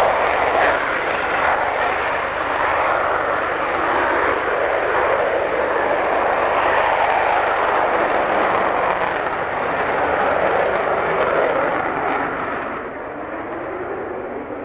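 Grumman F-14 Tomcat's twin jet engines running at high power during take-off: a loud, dense jet roar that weakens near the end.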